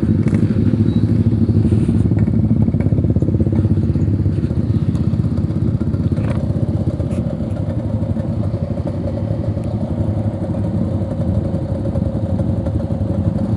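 Yamaha RX-King's two-stroke single-cylinder engine running steadily as the motorcycle is ridden, with a few brief knocks and clatters.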